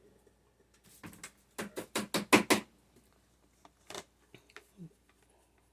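Light taps of an oil-painting fan brush: about seven in quick succession, then a few single ones.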